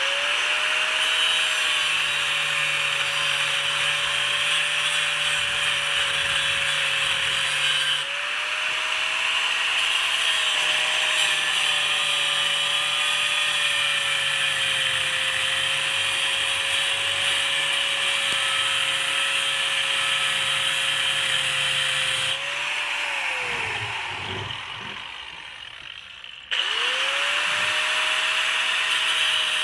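Disc grinder grinding down the rivet heads that hold a flywheel's ring gear, its motor running at a steady speed under a harsh grinding hiss. About two-thirds of the way through it is let off and spins down to quiet, then starts again a few seconds later and comes back up to speed.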